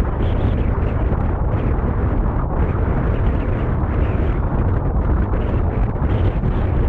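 Strong mountain wind buffeting the microphone: a loud, continuous low rumble with irregular gusts.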